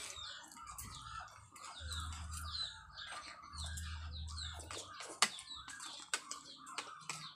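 Birds chirping over and over, many short calls that bend up and down in pitch, with a few sharp clicks of spoons against plates.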